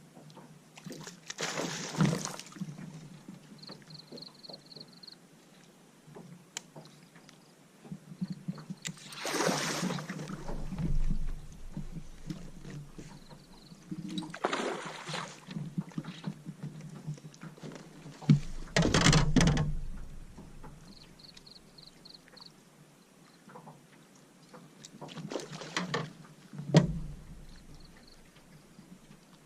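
Paddle strokes in the water beside a small boat: a swishing splash every few seconds, five in all.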